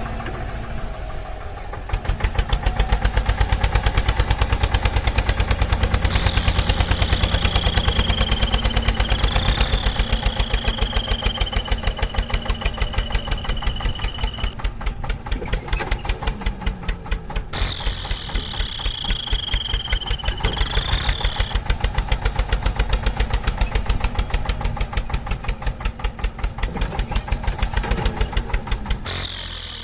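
Tractor engine running with a fast, even pulse. A high whistling tone comes in over it several times.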